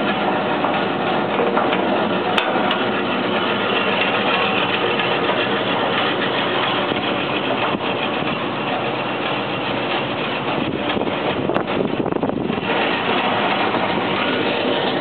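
Powermatic Model 81 20-inch bandsaw running with a loud, steady mechanical whir of motor and moving blade.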